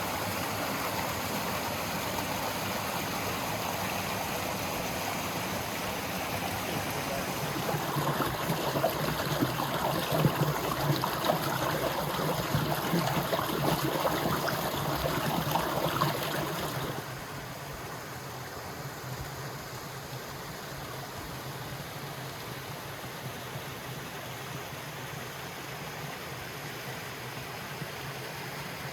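Running river water, a steady rushing flow. For several seconds in the middle it grows louder and more crackly, then about seventeen seconds in it drops abruptly to a quieter, softer flow.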